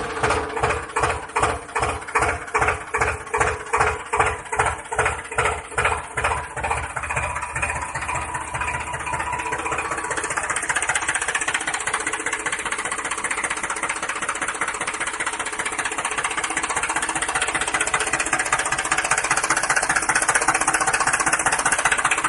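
An engine chugging, starting as slow, even thumps about two a second that quicken and blend into a steady running drone by about halfway through.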